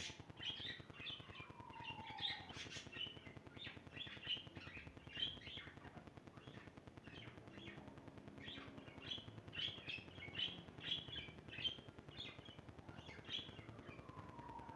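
Small birds chirping: a steady run of short, high chirps, with a long downward-sliding whistle in the first two seconds and another starting near the end.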